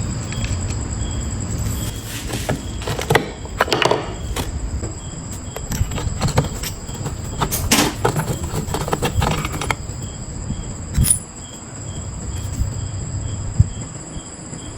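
Irregular knocks, clicks and scrapes of metal parts and hand tools being handled, with a few sharper clanks. Behind them runs a steady high-pitched insect chirring.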